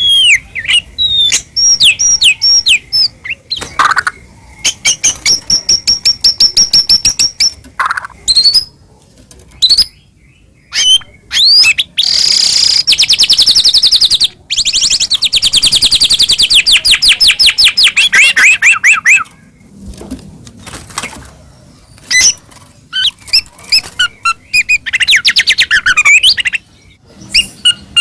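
White-rumped shama singing a varied song of short whistled notes and phrases broken by pauses. About halfway through it delivers a long, fast trill lasting several seconds that falls in pitch toward its end.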